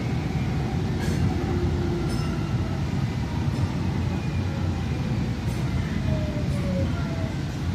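DART light rail train running along the track, heard from inside the car: a steady rumble with faint whines that slide slowly in pitch.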